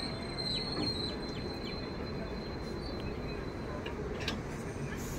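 Passenger train coaches rolling slowly past on departure: a steady running noise with a thin, high, steady whine that cuts off about four seconds in, and a few faint clicks near the end.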